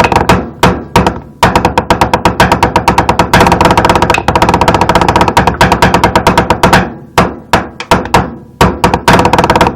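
Rapid percussion hits in a rap beat: a few separate strikes, then a very fast, dense roll for several seconds, thinning back out to spaced hits near the end.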